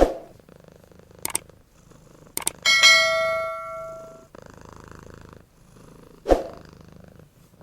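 A single metallic strike that rings like a bell and fades over about a second and a half, a few seconds in. It sits over a faint low rumble, with a few sharp clicks.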